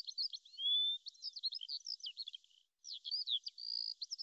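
Birds chirping: a run of quick high chirps, whistled notes sliding up and down, and short trills, with a brief break about two and a half seconds in.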